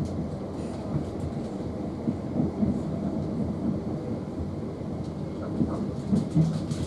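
Electric passenger train running, a continuous low rumble with a few irregular knocks.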